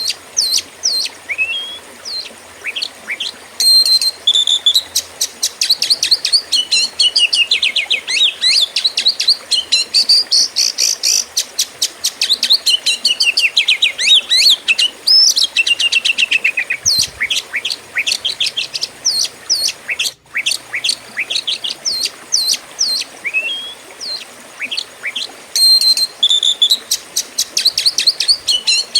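Oriental magpie-robin (kacer) singing a long, fast, varied song of sharp chirps, rapid trills and sweeping whistles, broken only by a split-second gap about two-thirds through.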